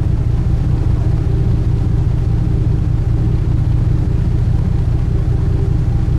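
Sightseeing cruise boat's engine running at a steady cruising pace: a constant, even, low drone heard on board.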